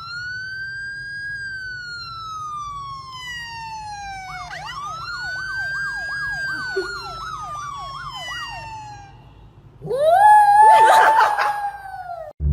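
Emergency vehicle siren: a wail that rises quickly and falls slowly over about four seconds, then a second rise with a fast up-and-down warble on top, about two to three cycles a second. About ten seconds in comes a louder, rougher held tone that stops shortly before the end.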